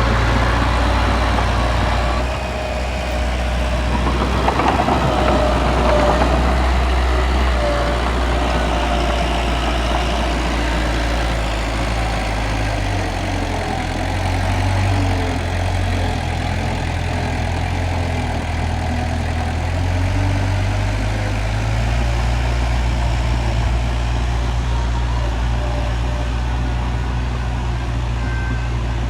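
Diesel engine of heavy earthmoving machinery running under steady load, its low engine note shifting in pitch about halfway through.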